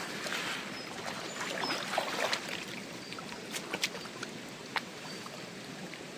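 Stream water splashing and running, with scattered sharp clicks and knocks throughout.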